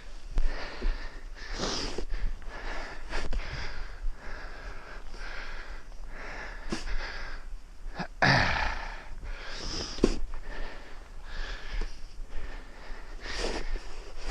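A man breathing heavily and wheezily right at the microphone as he shovels snow, with a few sharp scrapes and knocks of the snow shovel.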